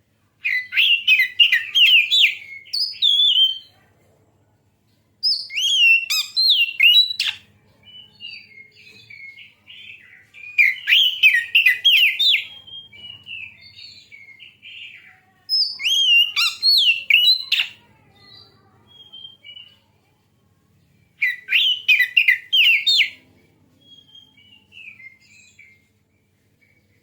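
Oriental magpie-robin (kacer) singing: five loud bouts of rapid, high warbling phrases a few seconds apart, with quieter scattered notes between them.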